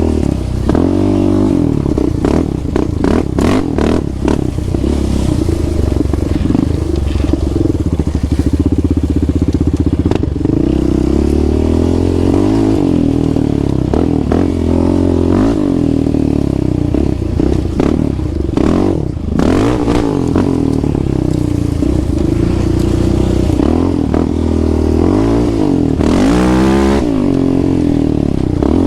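Off-road quad or dirt bike engine being ridden hard, its revs repeatedly climbing and dropping with throttle and gear changes. There are occasional clattering knocks, and a sharp rev sweep near the end.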